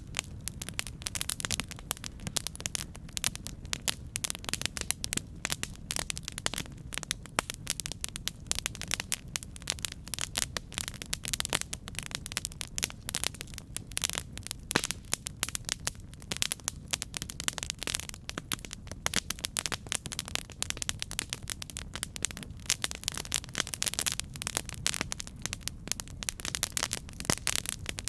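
Campfire burning, with dense, irregular crackles and pops from the burning wood over a steady low rumble of flame.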